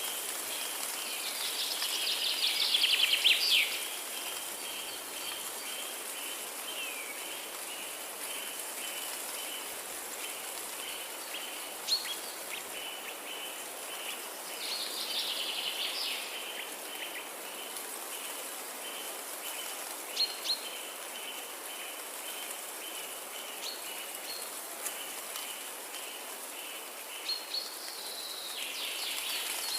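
Forest ambience: songbirds sing two bursts of rapid twittering, with a few short sharp calls in between. Under them run a high chirp repeated at an even pace and a steady background hiss.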